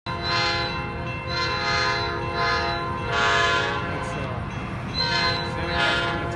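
Train horn sounding one long continuous blast, its several tones held steady and swelling louder and softer about once a second.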